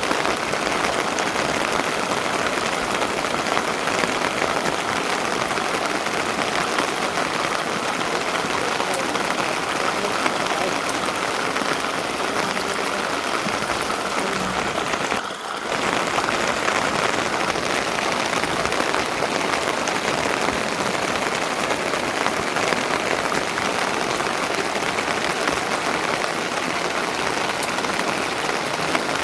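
Steady rain falling and pattering on surfaces, a dense even hiss with fine crackle that briefly dips about halfway through.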